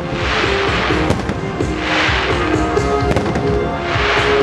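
Aerial firework shells bursting, heard as three swells of hiss about half a second, two seconds and four seconds in, over loud pop music playing throughout.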